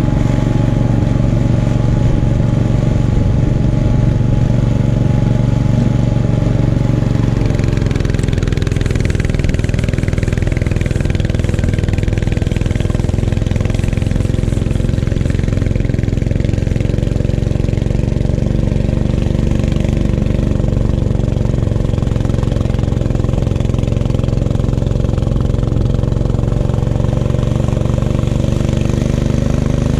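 Gravely 430's engine running steadily while driving its 38-inch snowblower. About eight seconds in, the engine's tone shifts slightly and a hiss comes in over it.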